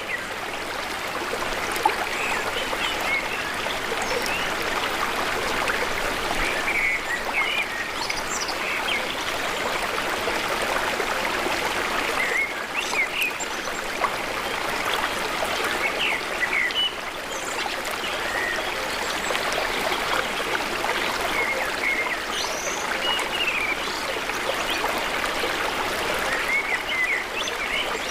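Steady rush of flowing stream water, with small birds chirping in short calls now and then over it.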